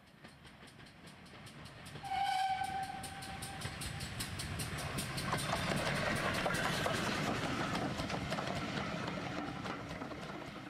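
A train sounds one whistle blast of about a second and a half, then runs past with an even rhythmic beat that swells and fades away.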